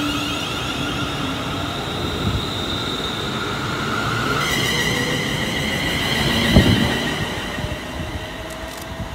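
ScotRail electric multiple-unit train running along the platform, a steady rumble under several high, whining tones from the wheels and motors; the tones change pitch a little under halfway through. One sharp thump comes about two-thirds of the way in.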